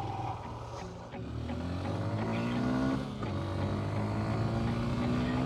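Honda XR150L's single-cylinder engine pulling hard under acceleration, its pitch rising, then dropping briefly about three seconds in at an upshift before climbing again.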